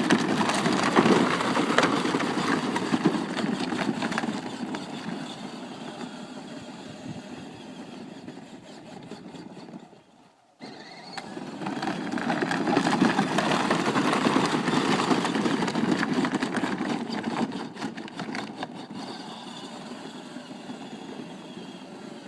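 Battery-powered ride-on toy truck's electric motor and gearbox whirring as it drives round in circles, growing louder and fainter as it comes round; the sound cuts out briefly about ten seconds in, then resumes.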